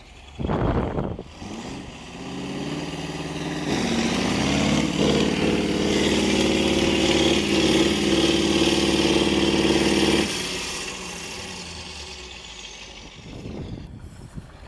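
Off-road trial truck's diesel engine revving hard and held under load for several seconds, then dropping back to a low idle about ten seconds in. A short, loud burst of noise comes about half a second in.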